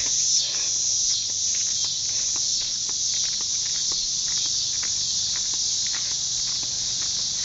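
A steady, high-pitched chorus of insects chirring, with a few faint scattered ticks.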